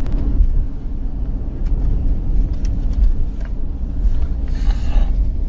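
Motor vehicle rumble: a loud, steady low drone with a few faint clicks and a brief hiss about four and a half seconds in.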